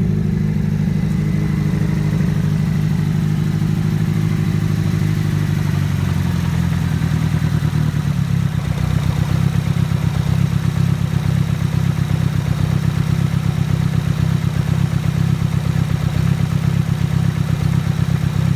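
Nissan Silvia S14's engine running. About six seconds in the note drops a little and turns into a steady, rapid pulsing.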